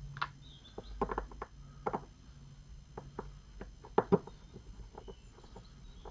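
Light clicks and taps of small metal and plastic parts being handled as a Kawasaki GT750 vacuum fuel tap is opened up. A sharp double click about four seconds in is the loudest.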